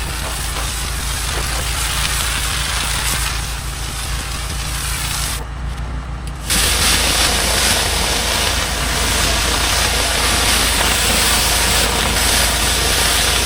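Gas-engine pressure washer running steadily, with the hiss of its high-pressure water spray on concrete and pavers; the spray gets louder and fuller about six and a half seconds in.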